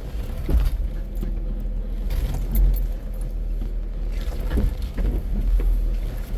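Jeep crawling slowly down a rocky trail, heard from inside the cab: a steady low engine and drivetrain rumble with scattered knocks and rattles as the tyres climb over rocks.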